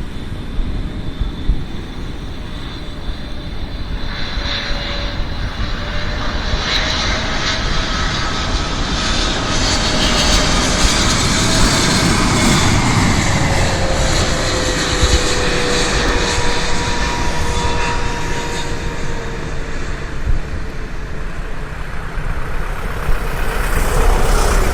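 Boeing 777-200LR's twin GE90 turbofan engines passing by, the jet noise swelling to a peak about halfway through with a tone that drops in pitch as the aircraft goes past, then easing off.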